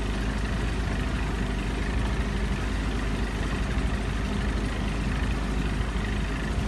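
Small boat's motor running steadily at slow, minimum-wake speed.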